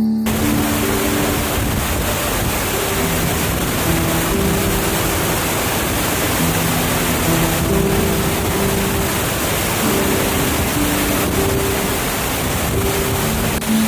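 A waterfall's steady rushing roar of falling water, cutting in abruptly at the start. Soft piano background music plays over it.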